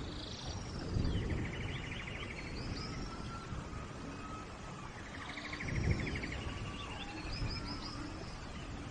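Steady rain with birds calling over it: a rapid trill, heard twice about five seconds apart, among higher chirps and slurred calls, with low rumbles rising about a second in and again near six seconds.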